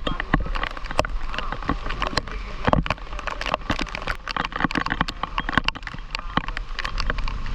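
Heavy rain pouring down, with many irregular sharp hits of drops striking hard surfaces.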